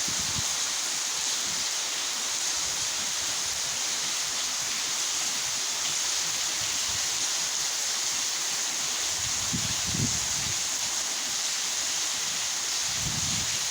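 Torrential rain pouring down in a steady hiss. Gusts of wind buffet the microphone with low rumbles about ten seconds in and again near the end.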